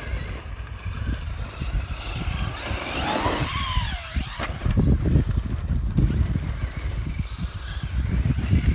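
Traxxas Hoss 4x4 VXL RC monster truck driving, its brushless electric motor whining up and falling away as the throttle is worked about three seconds in. Wind buffets the microphone underneath.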